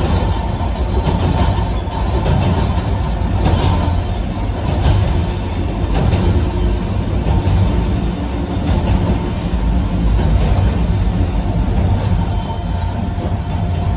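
Sanki Railway Hokusei Line narrow-gauge electric motor car running, heard from inside the passenger cabin: a steady low rumble of wheels on rail with a faint steady whine and a few light clicks from the track.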